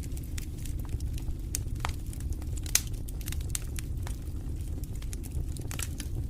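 Wood fire crackling in a fireplace: irregular sharp pops and snaps over a steady low rumble of the flames, with one louder pop a little under three seconds in.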